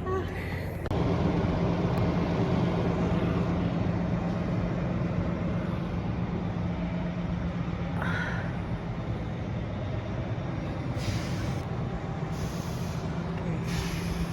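A large vehicle's engine running steadily with a constant low hum and road noise, with a few short hisses near the end.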